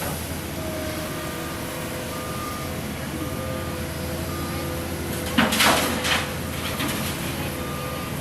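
Heavy road-works vehicle's engine running steadily while a reversing alarm beeps about once a second. A loud burst of hiss, like air being released, comes about five and a half seconds in.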